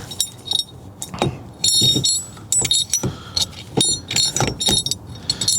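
Small loose metal parts, steering wheel puller bolts and tool pieces, clinking and rattling against each other as they are handled, in several short clusters of sharp metallic clinks.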